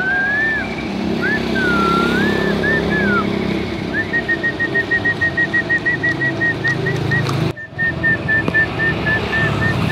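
Caged songbird whistling: clear notes that glide up and down, then a fast, even run of short repeated notes at about four or five a second, over steady road-traffic noise.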